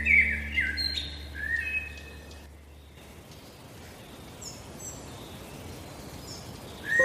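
Birds chirping and singing over a low held tone that stops about three seconds in. After that there is only a faint hiss and a few short, high chirps.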